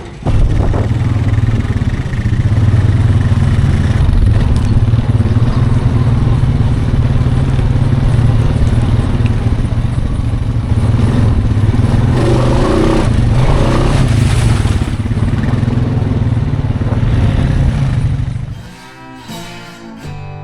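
A machine engine running loud and steady, a low even rumble, stopping abruptly about eighteen seconds in, after which music begins.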